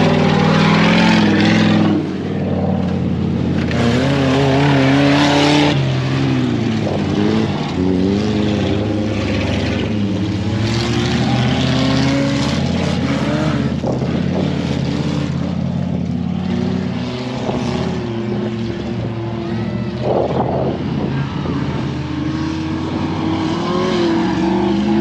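Off-road truck engine running and revving up and down repeatedly on a dirt course.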